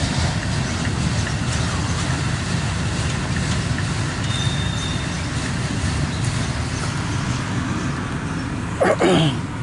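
Loaded autorack freight train rolling past, a steady rumble of its wheels on the rails. A faint, brief high tone comes in around the middle, and a short louder sound breaks in near the end.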